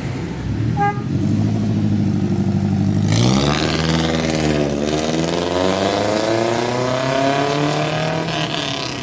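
Suzuki Futura fuel-injected engine through an HKS Hi-Power racing exhaust, idling steadily, then revved about three seconds in. The revs dip briefly, climb slowly, hold, and ease back near the end.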